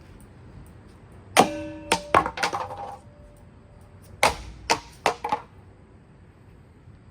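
Two clusters of hard impacts on a ceiling fan. About a second in, one hit is followed by several quicker clatters and a brief ringing. About four seconds in comes another hit with three more clatters.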